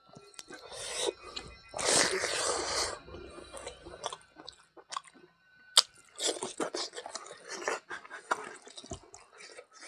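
Close-up chewing of mithun intestine and rice, mouth open, with irregular smacks and clicks. The loudest part is a noisy stretch of about a second, about two seconds in.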